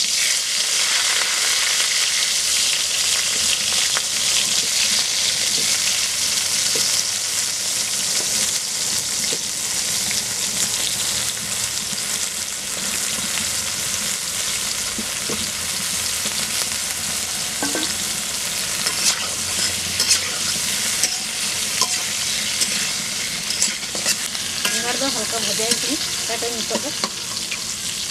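Brinjal (eggplant) pieces frying in hot oil in an aluminium kadai: a steady, loud sizzle. From about halfway through, a metal spatula now and then clicks and scrapes against the pan as the pieces are turned.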